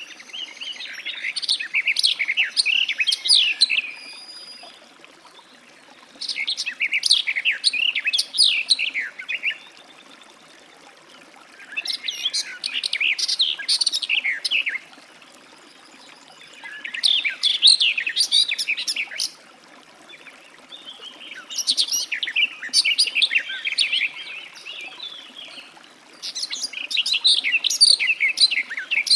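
Garden warbler singing: six long, fast warbling phrases of about three seconds each, separated by short pauses.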